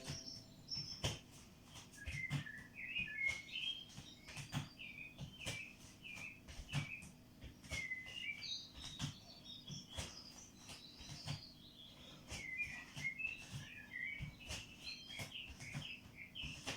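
A small bird chirps and twitters over and over. Soft thumps of footsteps on the floor come about once a second.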